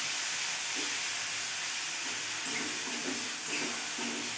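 Freshly added wet arum-leaf paste sizzling in hot mustard oil in a kadai, giving off a steady steamy hiss.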